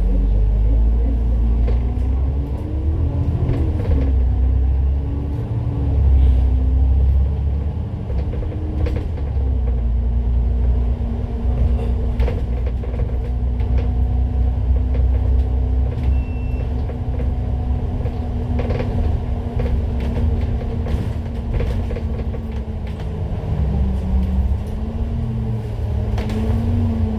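Citybus bus heard on board while driving: engine and drivetrain drone over a low rumble. The pitch climbs and dips over the first nine seconds, holds steady at a cruise for about thirteen seconds, then wavers again near the end.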